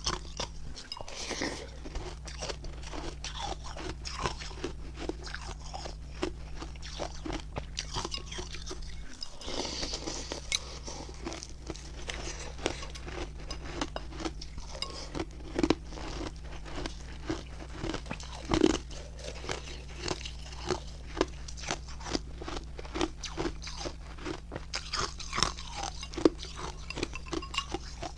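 Crunchy refrozen milk-and-matcha ice being bitten and chewed close to the microphone: a dense run of irregular sharp cracks and crunches, over a steady low hum.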